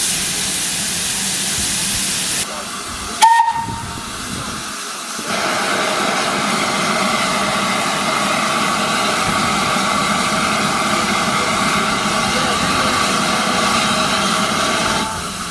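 Steam locomotive hissing steam, with a short, sharp whistle toot about three seconds in. A steady rush of steam starts about two seconds later and carries on until near the end.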